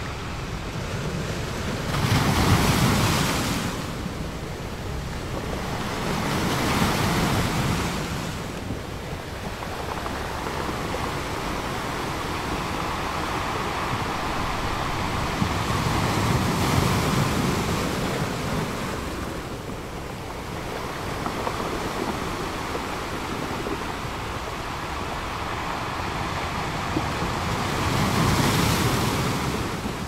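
Small ocean waves breaking over boulders in shallow surf: a continuous hiss of foaming water with several louder surges as waves crash, the strongest about two seconds in and another near the end.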